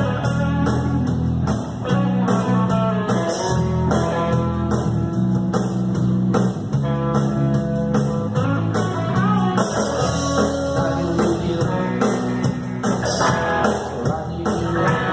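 Rock band playing an instrumental break: guitar melody lines over bass and drums.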